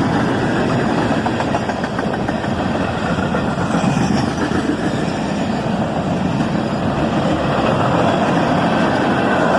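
CSX manifest freight train rolling past close by: a steady, loud rumble of wheels on rail, with the mixed engine and car noise holding even throughout.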